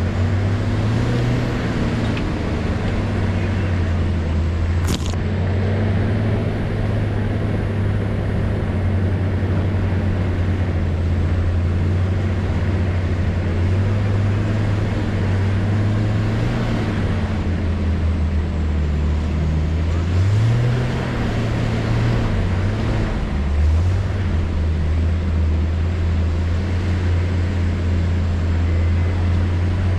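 Off-road vehicle's engine running steadily while driving a bush track, its pitch rising and falling a few times as the revs change. A single sharp click about five seconds in.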